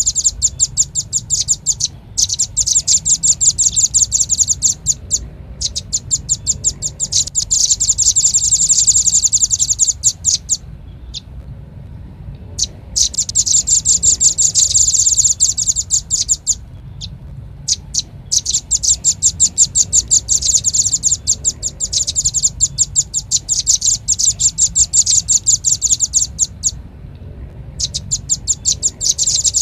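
Velvet-fronted nuthatch (red-billed rambatan) calling in rapid runs of sharp, high chipping notes, each run lasting a few seconds with brief pauses between, played as a bird-trapping lure call. A faint low hum runs underneath.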